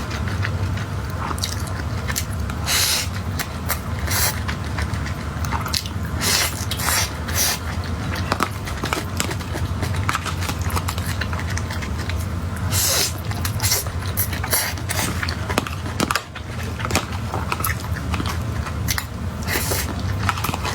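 Close-miked chewing and wet mouth smacks of someone eating soft food, many short irregular clicks over a steady low hum.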